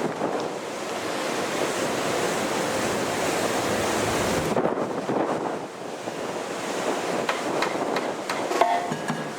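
Strong wind buffeting the microphone: a loud, steady rushing noise that eases briefly around the middle. Near the end a brass marching band begins to play.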